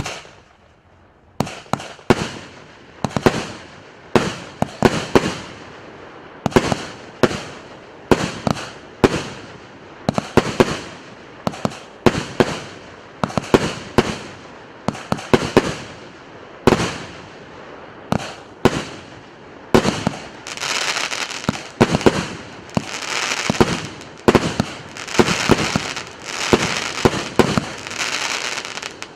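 A 150-shot, 1.2-inch consumer firework battery (cake) firing its shots in sequence: sharp bangs roughly one or two a second, each trailing off quickly. From about 20 seconds in, a dense crackling joins the bangs.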